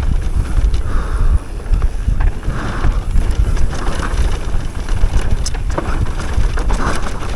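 Wind buffeting the microphone and knobby tyres rolling over a dirt trail as an electric mountain bike descends at speed, with a few short knocks and rattles from the bike over rough ground.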